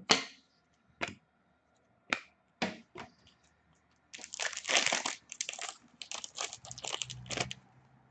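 Trading-card pack wrapper and cards being handled: a sharp crack at the start and a few short crackles, then a dense stretch of crinkling about four seconds in.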